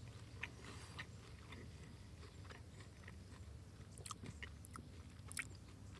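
Faint chewing of a mouthful of bread soaked in chilli oil, with soft mouth clicks now and then.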